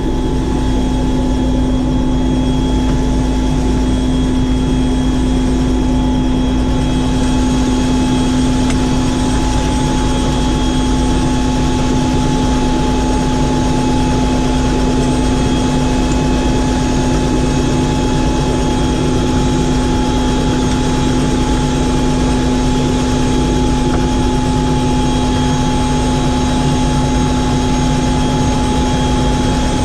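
Helicopter engine and rotor noise, a steady loud running sound with a constant low hum and a higher whine over it. The hiss grows brighter about seven seconds in.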